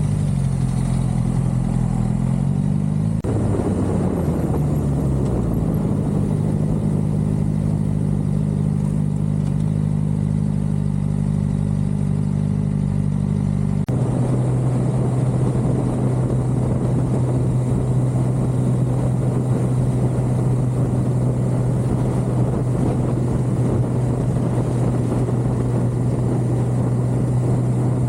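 2013 Suzuki GSX-R600's inline-four engine running under way, with wind and road noise. A few seconds in, the engine note slides and shifts. About halfway through, the noise thickens and the engine settles into one steady tone.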